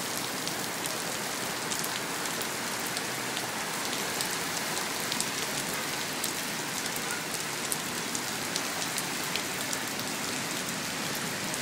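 Heavy rain falling steadily, with many small sharp drop ticks close by.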